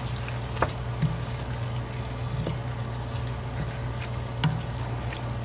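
Beef tripe and beef sizzling in a stainless steel pot while a wooden spoon stirs them, with a few light clicks of the spoon against the pot over a steady low hum.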